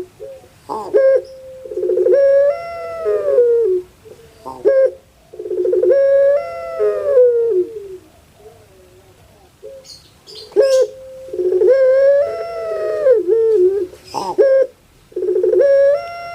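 Puter pelung (domesticated ringneck dove, Streptopelia risoria) cooing repeatedly. Each call opens with a short note and runs into a long drawn-out coo that wavers and falls away at the end, about five times.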